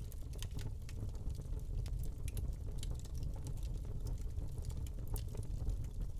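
Wood fire burning in a fireplace: a steady low rumble of flames, with frequent small crackles and pops at irregular moments.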